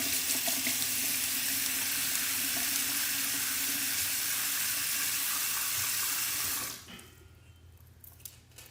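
Water running from a tap into a sink, a steady rushing hiss that is shut off suddenly near the end, followed by a couple of faint clicks.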